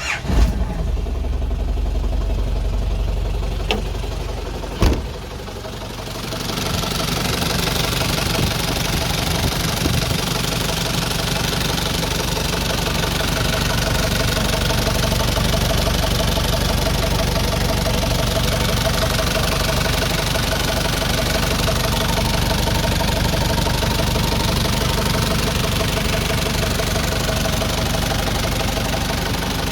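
A Land Rover Defender 110's Nissan BD30 3.0-litre four-cylinder diesel starts straight away on the key, with no warm-up wait, then idles steadily. There is a sharp knock about five seconds in, and from about six seconds the engine runs a little louder.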